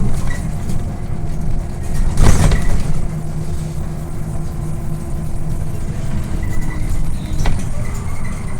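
Scania OmniLink I city bus under way, heard from inside the cabin: a steady low engine and road rumble, with a loud jolt and rattle about two seconds in and a sharp click near the end.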